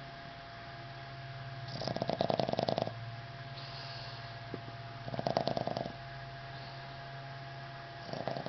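Boston terrier snoring in its sleep: three fluttering snores about three seconds apart, with a softer breath between them.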